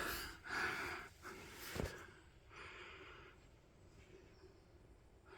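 A man's faint breathing, a few soft breaths in the first three seconds, with a short knock about two seconds in.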